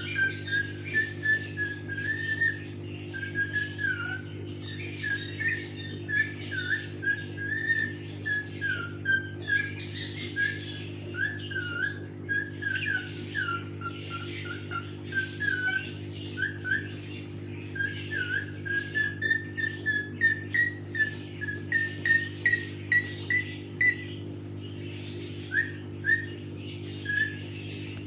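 Pet parrot whistling a long string of short notes and little up-and-down glides, about two a second, over a steady low hum.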